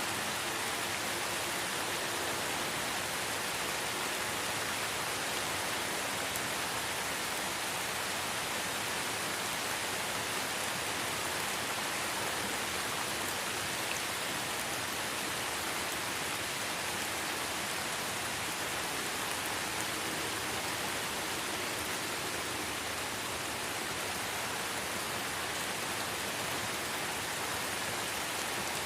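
Light rain falling in a forest, a steady even hiss of drops on leaves.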